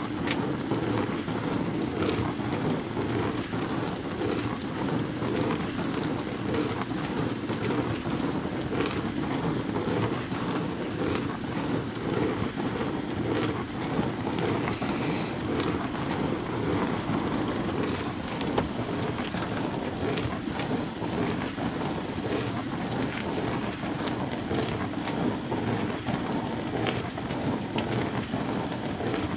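Bosch WAN28220FF washing machine running a synthetics 40 °C cycle: a steady churning of water and laundry inside the drum, with small irregular splashes and clicks over an even low rumble.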